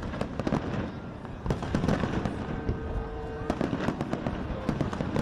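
Fireworks display: a dense, irregular run of bangs and crackling from many shells bursting in quick succession, over a steady rumble. About halfway through, a steady tone is held for roughly a second beneath the bangs.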